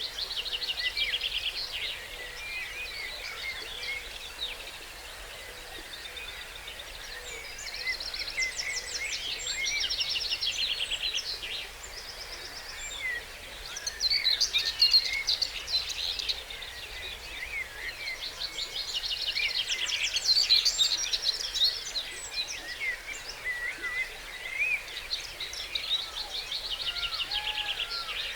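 Dawn chorus of songbirds: one bird repeats a short song of rapid trilled notes every six seconds or so, over the chirps and calls of other birds and a faint steady hiss.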